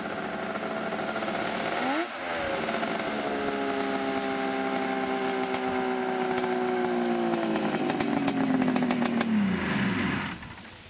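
Arctic Cat 900 three-cylinder two-stroke snowmobile engine running in a custom motorcycle, with a brief sharp swing in pitch about two seconds in. It then holds a steady note that sags slowly, with some rattling clatter, and winds down to a stop near the end as it is shut off.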